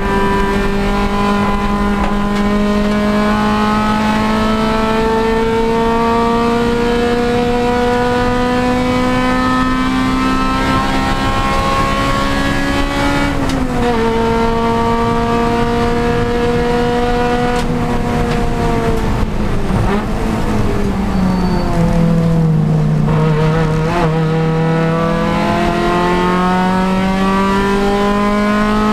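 Honda Civic Si race car's engine pulling hard, its pitch climbing steadily, with a sharp drop at an upshift about halfway through. About two-thirds in the pitch falls as the car slows for a corner, then it climbs again under acceleration near the end.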